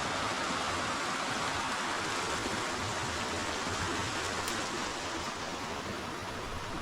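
Forest river water flowing steadily, an even rushing hiss that grows a little softer in the last couple of seconds.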